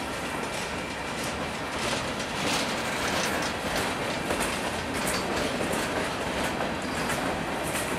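Freight cars, mostly covered hoppers and boxcars, rolling slowly past on steel wheels, with a steady rumble and irregular clicks as the wheels pass over the rail joints.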